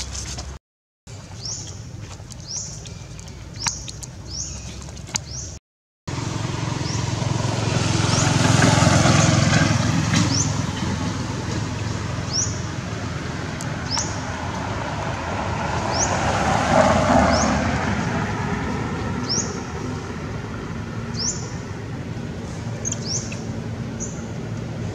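A bird chirping over and over, one short high rising note about every second or so, over a steady low outdoor rumble that swells loud twice, about a third and two-thirds of the way in. The sound drops out briefly twice in the first few seconds.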